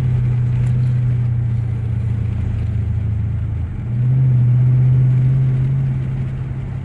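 2013 Dodge Charger's engine running under way, a steady low drone that swells louder about four seconds in and eases off again near the end.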